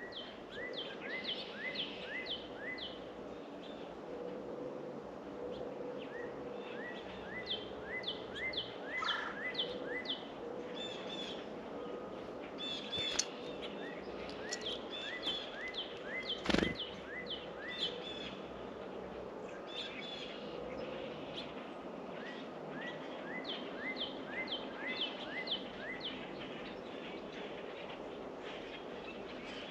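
Songbirds calling in quick runs of short, downward-sliding chirps, repeated throughout over a steady outdoor background hiss. A single sharp knock sounds a little past halfway.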